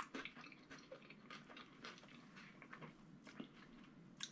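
A person chewing a bite of fried chicken sandwich with the mouth closed: faint soft wet smacks and small clicks, with a sharper click at the start and another near the end.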